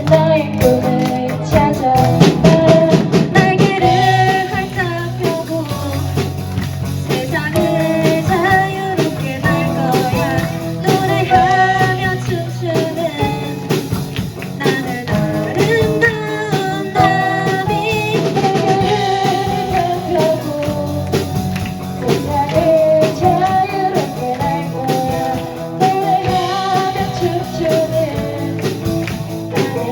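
Live rock band playing: sung vocals over electric guitar, bass guitar, keyboard and a drum kit.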